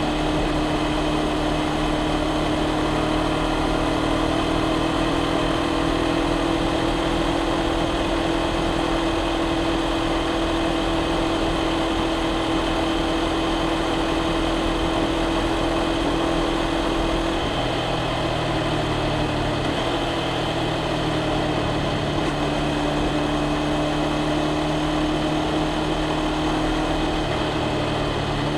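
Honda CBR500R's parallel-twin engine and exhaust running steadily, with the revs holding nearly constant. The engine note changes slightly about two-thirds of the way through.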